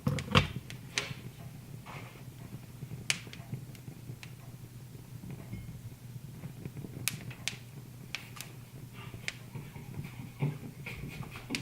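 Wood fire crackling: irregular sharp pops and snaps, the loudest just after the start, over a low steady hum.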